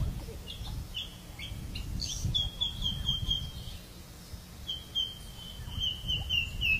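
Birds calling: scattered short chirps, then a rapid run of repeated high notes about two seconds in and another from about five seconds in, over a steady low rumble.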